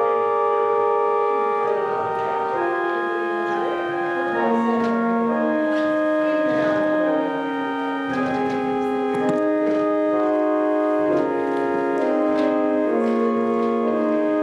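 Organ playing slow music in sustained chords, the held notes changing every second or two.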